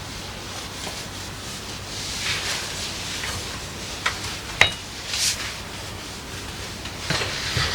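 Rubbing and wiping sounds of cleaning a surface by hand, with two sharp clicks a little past halfway, the second with a brief ring.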